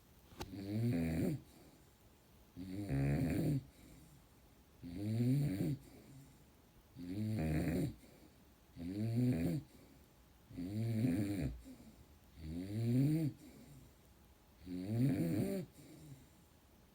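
Dog snoring loudly, a rough buzzing snore like a weed whacker, eight snores at a steady pace of about one every two seconds, each lasting about a second.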